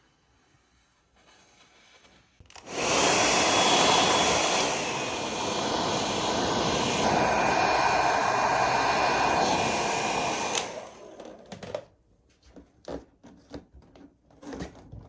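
An electric fan-driven appliance, such as a hair dryer or vacuum, switched on and running for about eight seconds with a loud rush of air and a high whine that steps down in pitch a couple of seconds in, then cut off abruptly. A few light clicks and knocks follow.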